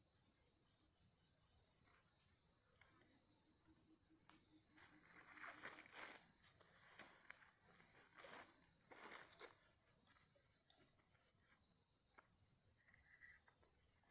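Faint steady chirring of insects, a continuous high-pitched chorus, with a few soft scattered rustles and clicks.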